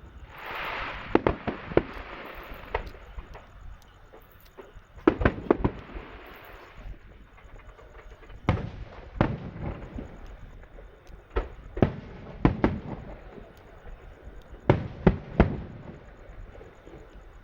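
Aerial fireworks bursting: a string of sharp bangs, mostly in quick clusters of two or three a few seconds apart, with a spell of hissing crackle after the opening bursts.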